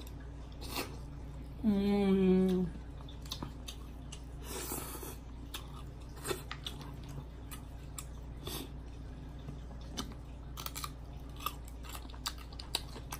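Close-miked eating of crab-leg meat: wet chewing, lip smacks and mouth clicks, with a short hummed "mmm" about two seconds in.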